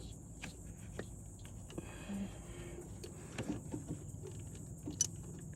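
Scattered light clicks and taps of metal parts and hand tools while a new mechanical fuel pump is worked into place on a Land Rover 2.25 petrol engine, over a steady low hum.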